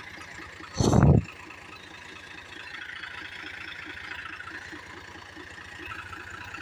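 Tractor engine running steadily with an even low pulse. About a second in comes one short, loud low rumble, the loudest sound here.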